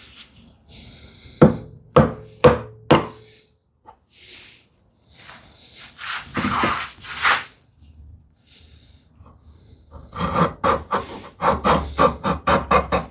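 Hand tool working a wooden tenon while its haunch and corners are cleaned up. There are four sharp taps about a second and a half in, then a couple of longer scraping strokes, then a quick run of short rasping strokes, several a second, near the end.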